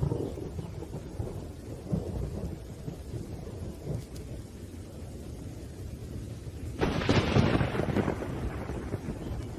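Thunderstorm with heavy rain: low, rolling thunder rumbles throughout, and a sharper, louder thunderclap breaks about seven seconds in.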